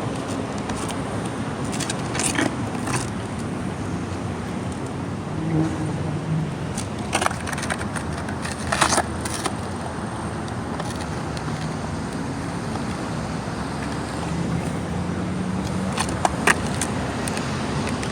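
Skateboard wheels rolling on pavement, with a few sharp clacks and knocks of the board scattered through.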